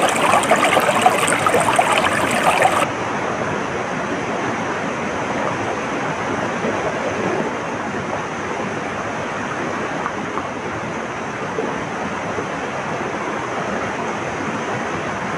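Stream water flowing and burbling. About three seconds in, the sound cuts abruptly to a quieter, steadier rush of water.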